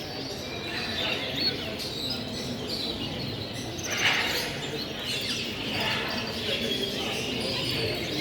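Cage birds chirping and calling in short bursts, with a louder burst of calls about four seconds in, over a steady murmur of the show crowd.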